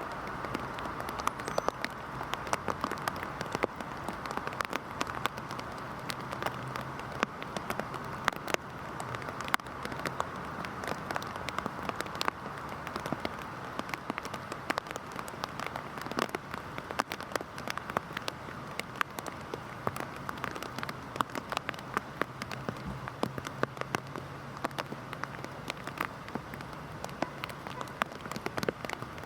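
Heavy rain falling steadily, with a dense patter of individual drops hitting a hard surface.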